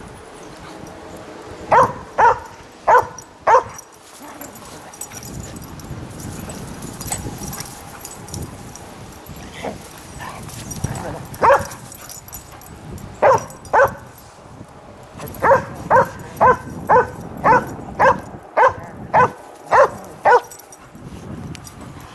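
Dog barking in play: four quick barks, a lone bark, then a pair, then a run of about ten barks in quick succession.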